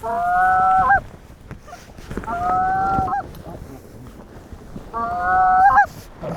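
Goose call blown by a hunter: three long drawn-out honks, each about a second long, held on one pitch and breaking upward at the end.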